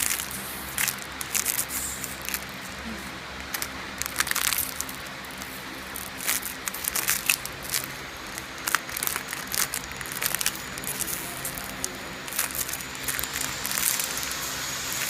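Irregular crackling and rustling handling noise over a steady low hum.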